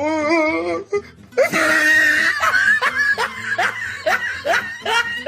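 A person laughing in a run of short, rising bursts, about two or three a second, after a wavering, wailing voice in the first second.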